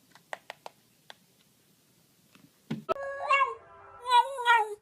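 A few faint clicks, then a cat meowing in two drawn-out, wavering calls in the second half.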